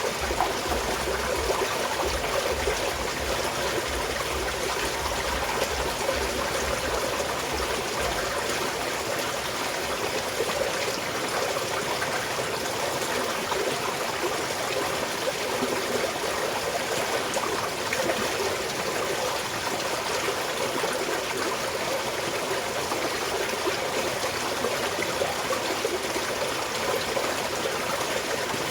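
Small mountain stream flowing and trickling steadily. A low rumble underneath fades out about eight seconds in.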